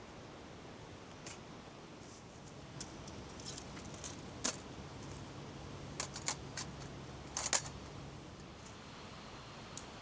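Scattered light clicks and clinks of small hard objects being handled, over a steady faint hiss.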